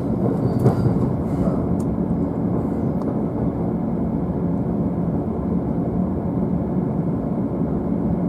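JR East E531 series commuter train running, heard from the upper deck of a bilevel car: a steady low rumble of wheels on rail, with a few faint clicks in the first few seconds.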